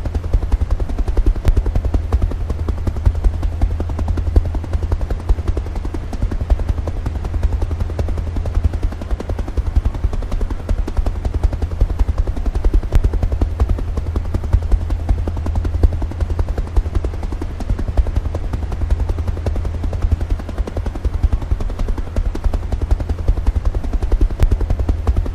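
Helicopter rotor chopping in a fast, steady beat over a deep drone, with no change through the stretch.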